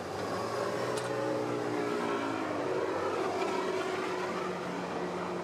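Zündapp motorcycle engine running, its pitch dropping about a second in and then holding steady. A sharp click sounds about a second in.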